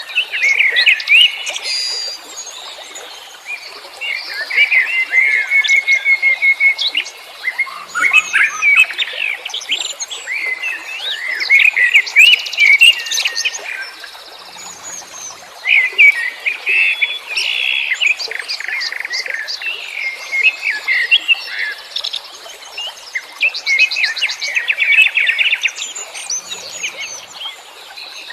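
A dense chorus of many wild songbirds chirping, trilling and whistling over one another, in loud clusters with brief lulls between them.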